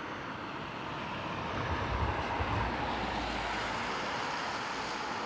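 A car passing along the road, its engine and tyre noise swelling to loudest about two seconds in, then fading away.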